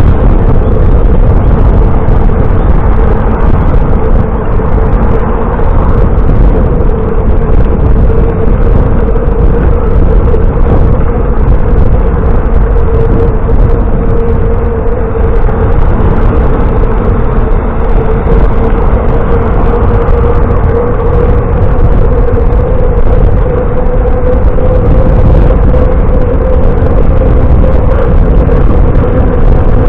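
Steady wind rush on the microphone while cycling, loud and unbroken, with a constant hum running under it.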